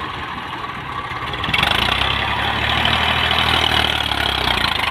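Tractor's diesel engine running steadily, stepping up louder about one and a half seconds in, during an attempt to start the tractor.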